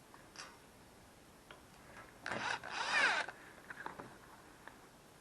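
A short rasping, scraping sound about two seconds in, lasting about a second, among a few light clicks and knocks: small steel brackets being handled and fitted to a welding table.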